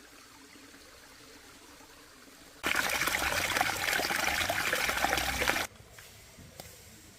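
Water running or pouring steadily for about three seconds, starting and stopping abruptly.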